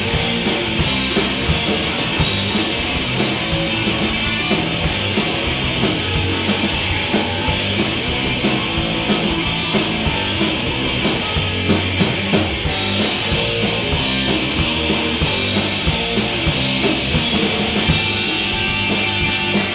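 Punk rock band playing live, an instrumental passage of electric guitar and drum kit without singing.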